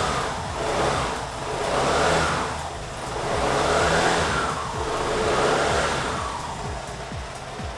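Vespa Sprint 125 scooter's single-cylinder four-stroke engine being revved: the throttle is blipped about four times, each rev rising and falling back, then it settles to a steadier idle near the end.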